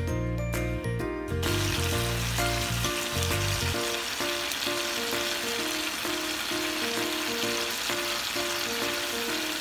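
Pork chop frying in a pan, sizzling steadily; the sizzle starts about a second and a half in. Background music plays throughout.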